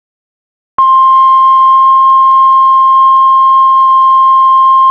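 Heart monitor flatline alarm: one long, steady high beep that starts suddenly about a second in and holds unbroken, the monitor's sign that the heart has stopped.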